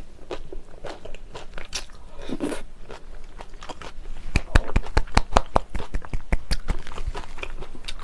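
Close-miked chewing and crunching of a mouthful of jjajang sauce with chopped cheongyang chili peppers. The wet, crunchy bites grow dense and loud about halfway through.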